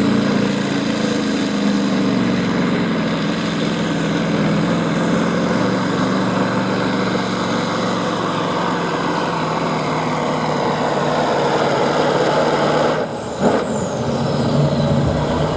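Limited Pro Stock diesel semi truck pulling the weight sled at full throttle, its engine running loud and steady with a high turbo whistle. About 13 seconds in the engine briefly drops and surges again.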